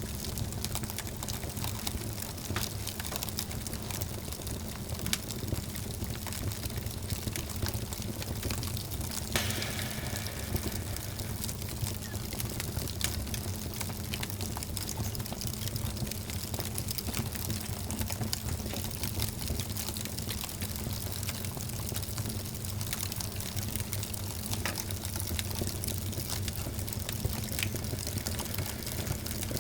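Fire burning in a fireplace: a steady low rumble of flames with scattered crackles, and one louder pop about nine seconds in.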